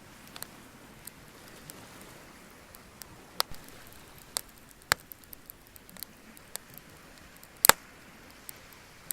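Bonfire wood crackling: irregular sharp pops and snaps, the loudest a quick double pop near the end, over a faint steady hiss.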